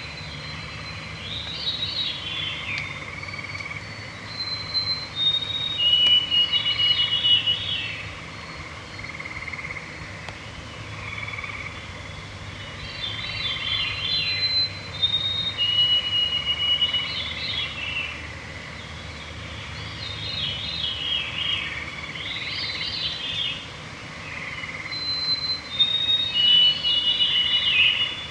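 Evening chorus of forest songbirds: several songs overlap and repeat every few seconds, some falling in pitch and some thin held whistles, over a steady background drone.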